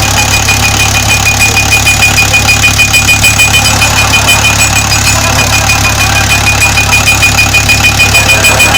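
Cargo truck's engine running with a regular knock about four to five times a second, the sound of a failing connecting rod.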